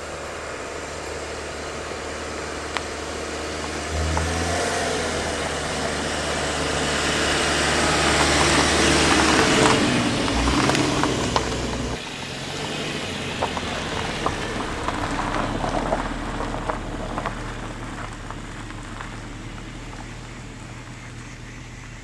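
Car on the move: a steady engine hum under road noise that swells to a peak about halfway through and then eases off, with scattered light clicks and taps in the second half.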